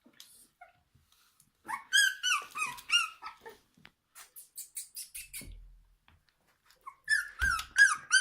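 Three-week-old kelpie puppies whimpering and squealing in short, high, wavering cries, a cluster about two seconds in and another near the end, with faint scratchy clicks in between.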